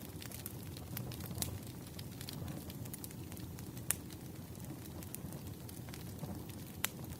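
Campfire crackling: a steady low rumble of burning wood with irregular sharp pops and snaps, three of them louder than the rest.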